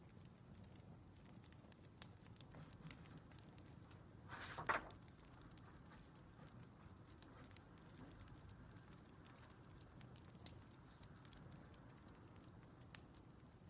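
Crackling wood fire, faint, with a low steady rumble and scattered sharp pops. About four and a half seconds in there is one louder noise lasting under half a second.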